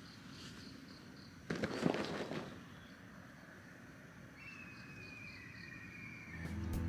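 Quiet outdoor ambience with faint repeated high chirps, a brief rustling clatter about one and a half seconds in, and a thin, slowly falling whistle about four and a half seconds in. Music begins right at the end.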